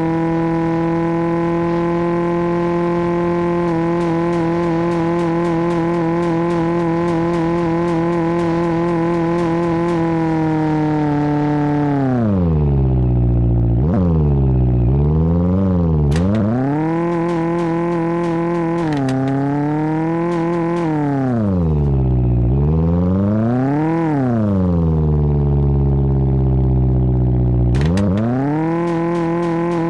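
Tofaş car's four-cylinder engine held at high revs for about twelve seconds, then repeatedly dropping back and revving up again.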